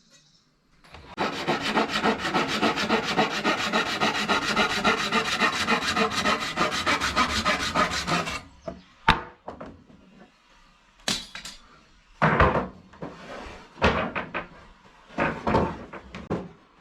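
Continuous scraping on wood for about seven seconds, cutting off suddenly, then a few separate knocks and short scrapes.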